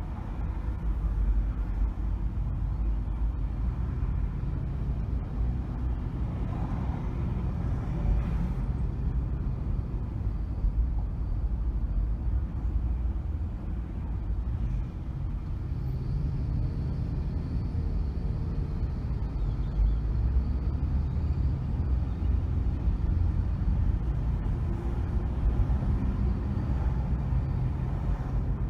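A car being driven on city streets: a steady low rumble of engine and road noise that swells and eases slightly as it goes.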